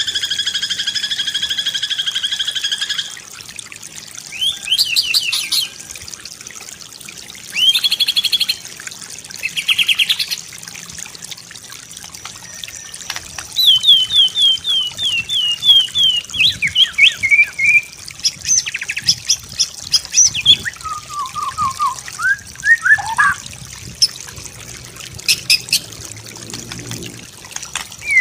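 White-rumped shama singing a varied song. It opens with a held high whistle of about three seconds, then gives short rapid trills and a quick run of falling whistled notes, with lower notes near the end.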